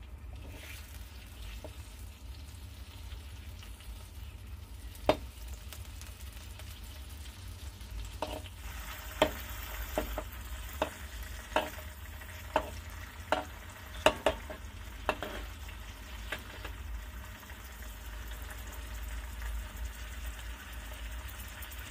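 Tomatoes, bird's-eye chillies, garlic and shallots sizzling in oil in a metal wok as they are sautéed. A spatula knocks against the wok in a run of strokes, about one a second, through the middle of the stretch.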